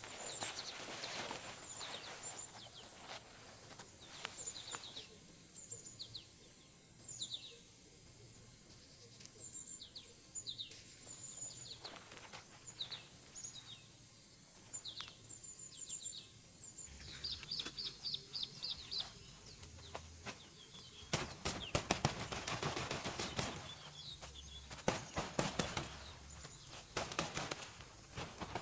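Small birds chirping: repeated short, high, down-slurred calls, with a quick run of notes about two-thirds of the way in. In the last third, a dense stretch of crackling clicks and rustling is louder than the birds.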